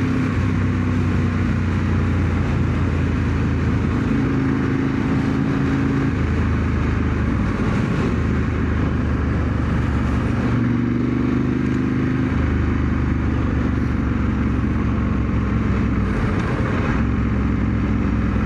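Ducati 916's Desmoquattro V-twin engine running under way at moderate revs, its steady note stepping up and down in pitch a few times. The engine is being ridden gently while it is run in.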